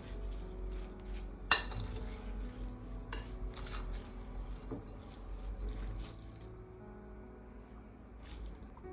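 Kitchen dishes and utensils clinking and knocking, with one sharp clink about a second and a half in and a few lighter knocks after it.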